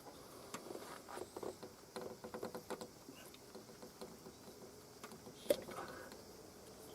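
Faint, scattered light clicks and taps, like small hard objects being handled: a quick cluster in the first three seconds and one sharper click about five and a half seconds in.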